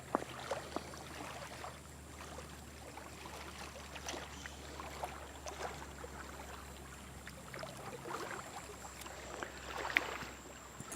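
Faint water lapping at a rocky shore, with a few short knocks scattered through it, the loudest near the end.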